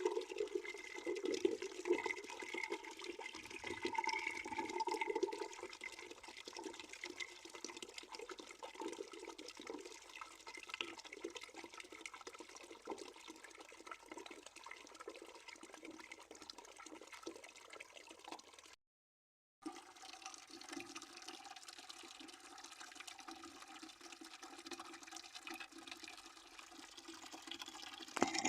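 A stream of water flowing into a bucket, splashing and gurgling steadily as it fills. The sound cuts out completely for under a second about nineteen seconds in, then carries on.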